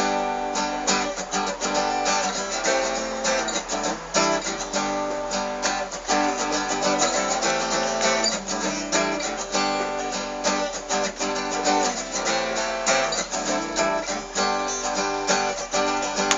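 Acoustic guitar strummed in a steady instrumental passage, with no singing.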